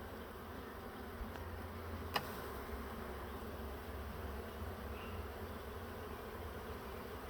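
A swarm of honeybees buzzing steadily as they fly around and march into the hive box, with one sharp click about two seconds in.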